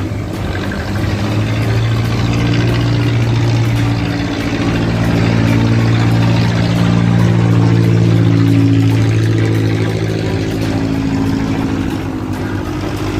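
A boat's engine running steadily with a deep, even hum. It grows louder to its peak about eight seconds in, then eases a little.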